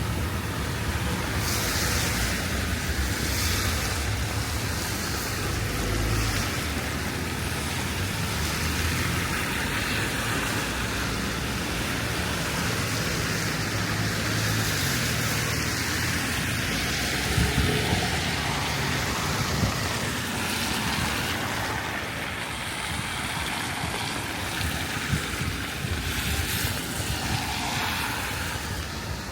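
Steady rain falling, with road traffic passing on wet tarmac: tyre hiss and engine rumble that swell and fade a few times.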